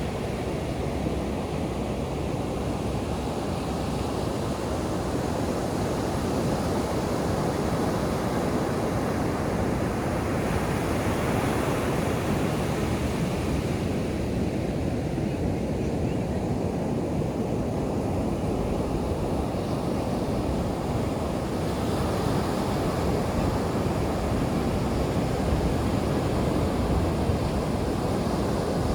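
Ocean surf breaking and washing on a sandy beach, a steady rushing wash that swells gently and eases, with some wind on the microphone.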